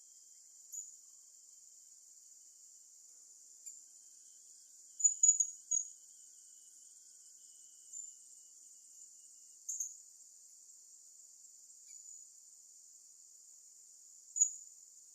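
A steady, high-pitched drone of insects, with short, sharp, high bird chirps scattered over it. The chirps come in a quick cluster around five seconds in, and the loudest comes near the end.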